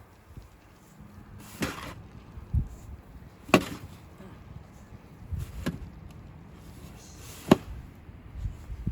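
Snow shovel at work: sharp knocks of the blade striking the ground about every two seconds, with duller thumps in between.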